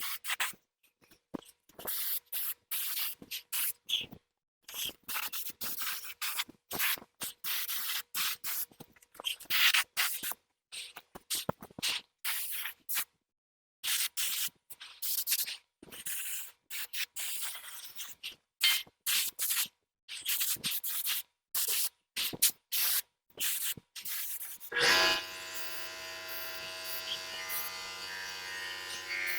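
Paint being sprayed red onto a tractor wheel hub, the sprayer hissing in many short bursts with pauses between. Near the end a steady hum starts up.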